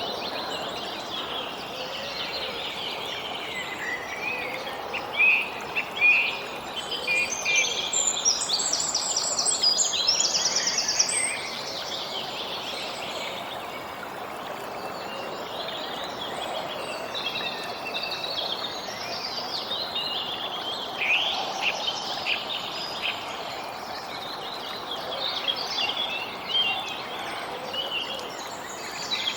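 Several birds chirping and singing over a steady background hiss, with the calls busiest in the first third.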